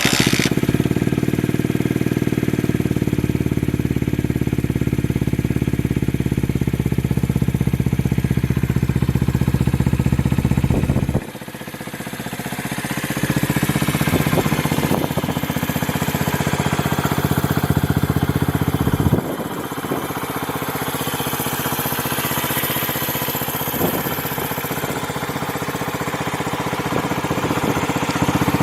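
Honda Ape 50's small single-cylinder four-stroke engine idling steadily through a BEAMS aftermarket muffler. The sound drops abruptly about eleven seconds in and again, less, about nineteen seconds in.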